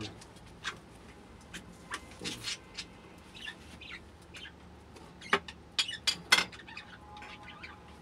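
Pet birds chirping under their covered cage: scattered short, sharp calls and clicks, with the loudest few coming about five to six seconds in.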